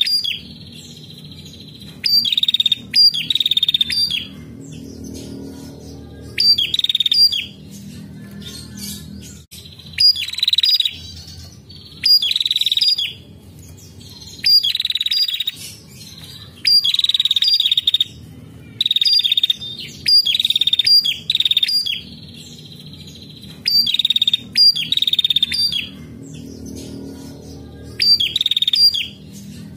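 Female prenjak calling over and over: a dozen or so short bursts of rapid, high trilling notes, each about a second long, separated by short pauses, over a steady low background rumble.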